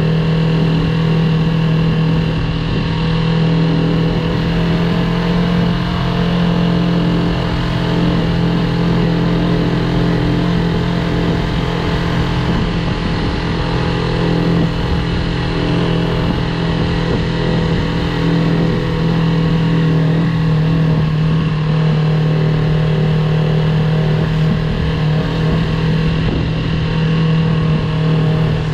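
Yamaha YZF-R3's 321 cc parallel-twin engine running while riding at a steady pace, its pitch holding nearly constant.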